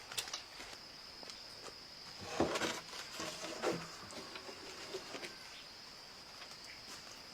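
Insects buzzing in one steady high-pitched drone. A few brief louder noises break in around the middle.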